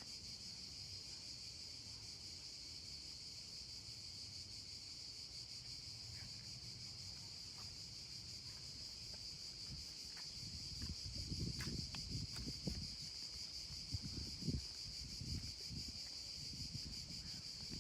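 Steady high-pitched buzz of an outdoor insect chorus, unbroken throughout. From about ten seconds in, irregular low rumbles join it and are louder than the buzz.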